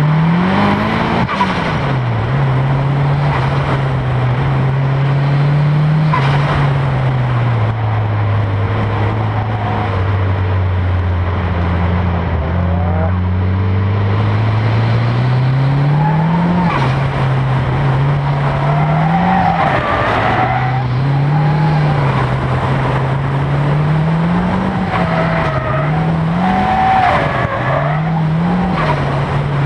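Nissan Silvia S13's turbocharged SR20DET four-cylinder engine running on track, its pitch rising and falling as it is revved and backed off, low and steady through the middle. Tyres squeal in slides about two-thirds of the way through and again near the end.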